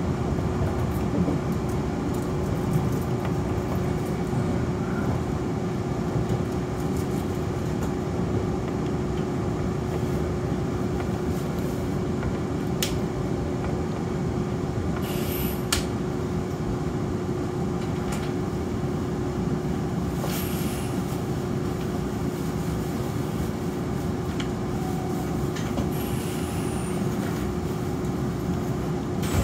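Nankai Koya Line commuter train running, heard from aboard: a steady rumble with a constant hum, a few sharp clicks and three brief high squeals.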